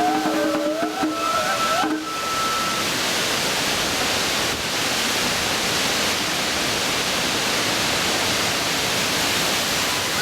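Strong wind rushing steadily. A wavering flute melody of the festival music plays over it for the first two seconds, then stops.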